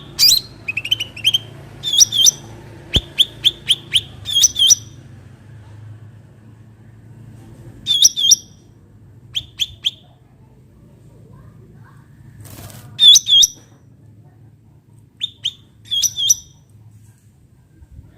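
Cucak ranting, a small bulbul, calling in quick clusters of short, high chirping notes, three to five notes at a time. The clusters are separated by pauses of one to a few seconds.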